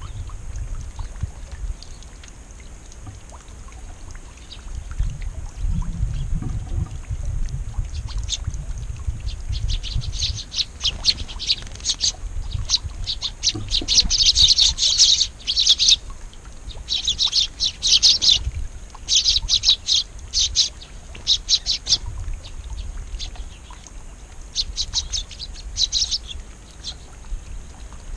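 Small songbirds chirping in quick runs of short, high notes, in clusters that thicken in the middle and thin out near the end. A low rumble lies under the first half.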